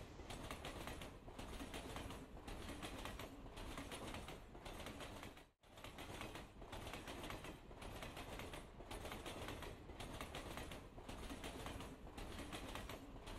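Faint background noise close to near silence. It rises and dips softly about once a second, and drops out to dead silence for a moment about midway.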